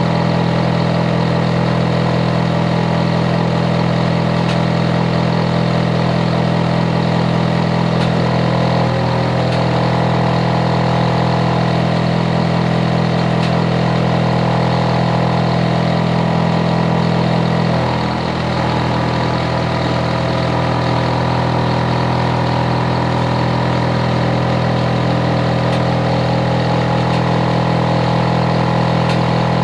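Hitachi air-conditioner outdoor unit running loudly: a steady machine hum made of several pitched tones. The tones shift about nine seconds in, and the deep part of the hum drops a little about eighteen seconds in.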